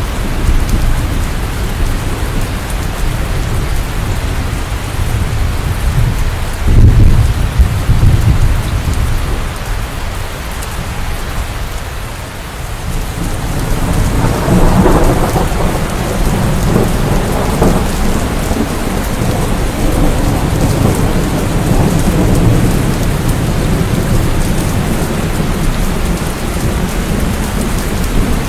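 Steady rain during a thunderstorm, with a loud low rumble of thunder about seven seconds in and another long rumble building about halfway through.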